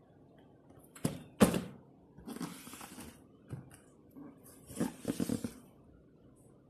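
Objects being handled by hand: two sharp knocks about a second in, then rustling, another knock and a short clatter near the end. No blender motor is running.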